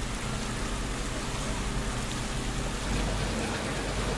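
Steady hiss of rushing water, rain-like, over a low steady hum from a fishing boat's engine. The low hum grows louder about three seconds in.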